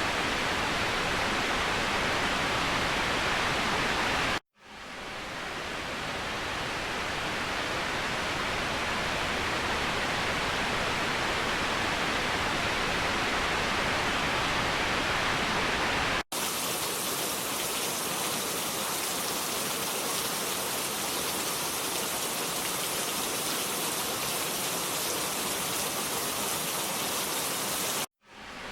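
Waterfall: a steady rush of falling water. It drops out briefly about four seconds in and again near the end, each time fading quickly back in. About sixteen seconds in it cuts sharply to a thinner rush with less low rumble, as one recording is spliced to the next.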